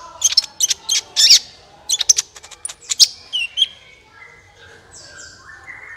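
Sunbird ('kolibri') singing: quick clusters of sharp, high chirps and twitters, with a few short falling notes just past the middle, then sparser and quieter for the last couple of seconds.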